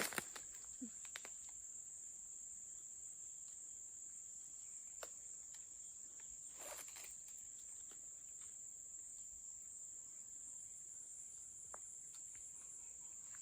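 Forest insects making a steady, high-pitched drone, with a few faint clicks and rustles, one about five seconds in and another about seven seconds in.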